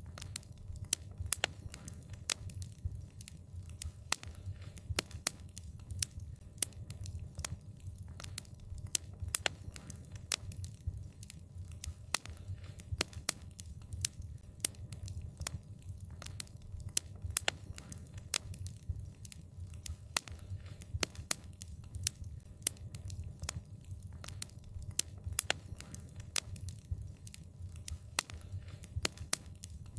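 Wood fire burning, with sharp irregular crackles and pops several times a second over a steady low rumble of the flames.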